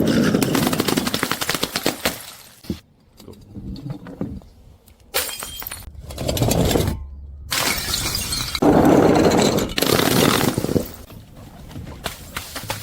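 Glass bottles shattering and crunching, several separate breaks one after another, each a loud crash with a spray of clinking shards.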